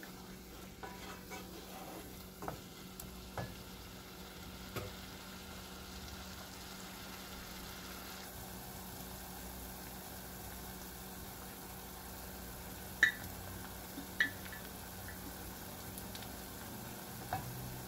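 Chopped onion and ginger sizzling in oil in a saucepan while a wooden spoon stirs them, scraping and knocking lightly against the pan. Two sharper knocks on the pan come late on and are the loudest sounds.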